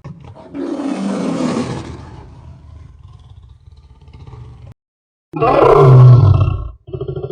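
Recorded animal roars: a roar lasting over a second begins about half a second in and trails off, then after a short gap of silence a louder, deeper roar comes, followed by a shorter call near the end.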